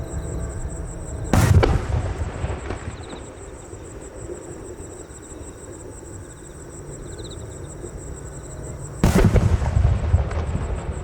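Two loud aerial firework shells bursting, one about a second and a half in and another near the end, each booming and rolling away in a low rumble. Insects trill steadily in the background.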